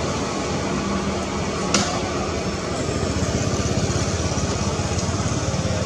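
A small engine running steadily, with one sharp click a little under two seconds in.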